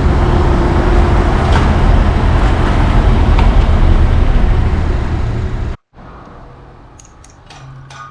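Loud, steady rumbling noise of a vehicle or traffic, cut off abruptly about six seconds in. A few faint clicks follow, and guitar music begins near the end.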